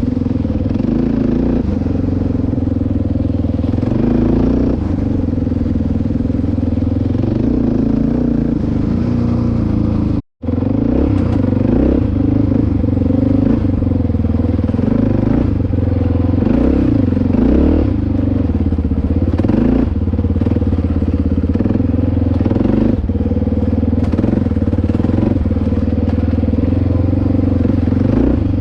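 Dirt bike engine running steadily on the move, its pitch rising and falling with the throttle. The sound cuts out for an instant about ten seconds in.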